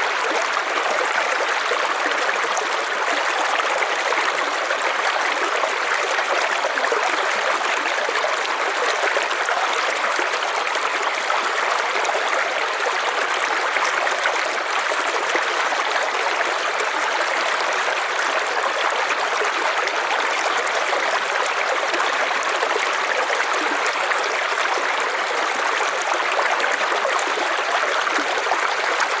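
River water flowing steadily over stones, a continuous even rush with a trickling, babbling texture.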